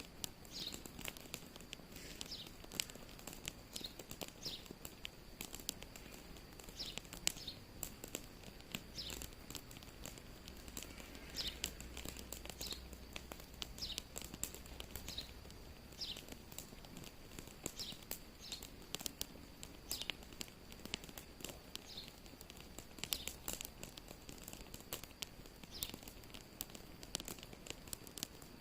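Wood fire crackling, with frequent irregular sharp pops and snaps over a faint steady hiss.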